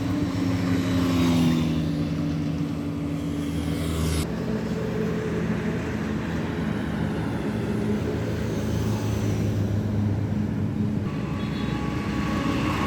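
Road vehicle engines running with traffic noise, a steady low hum. The sound changes abruptly about four seconds in and again near the end.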